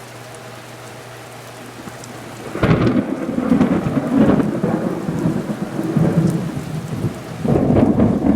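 Steady rain, then about two and a half seconds in a sudden loud clap of thunder that rolls on as a long rumble, swelling again near the end.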